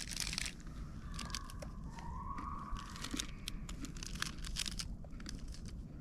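Plastic biscuit wrapper crinkling and tearing open, a burst of crackling at the start and more sharp crackles through the middle.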